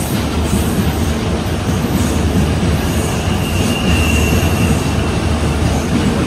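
A passenger train running along the adjacent main line, a steady loud rumble of wheels on rail with a faint thin wheel squeal about three seconds in.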